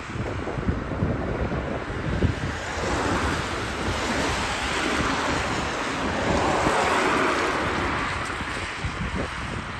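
Jet airliner engines, a steady rushing roar that swells twice, mixed with wind buffeting the microphone.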